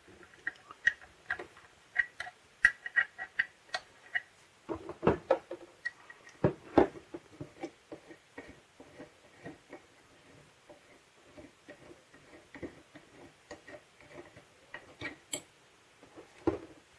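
Hand-held plastic tape gun being handled and taken apart: irregular small clicks, taps and knocks of its plastic parts, busiest about five to seven seconds in.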